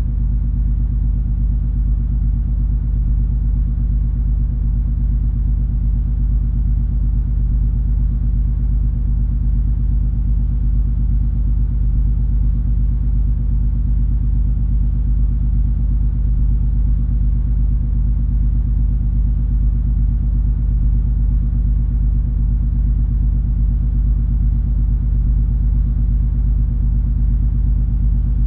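Cruise ferry MS Color Fantasy's engines heard aboard as it sails: a steady deep rumble with a low, even hum and no change in pitch or loudness.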